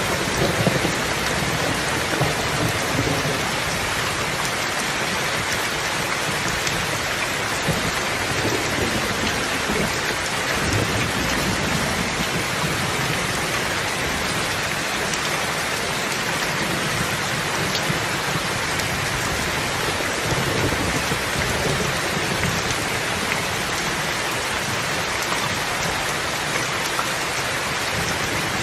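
Steady rain falling with an even hiss, with low rumbles swelling and fading now and then underneath.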